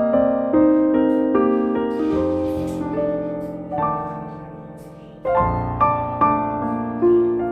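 Background music: a slow piano piece, single notes and chords struck and left to ring, with a short dip in loudness about five seconds in before new notes come in.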